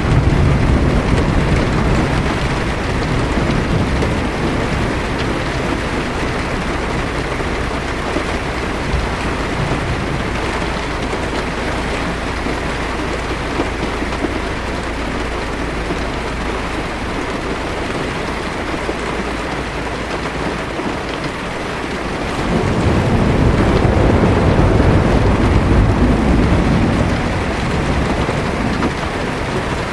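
Heavy rain drumming steadily on a car's roof and windshield, heard from inside the car. Low thunder rumbles and fades over the first few seconds, and another roll of thunder swells up about 23 seconds in and dies away over several seconds.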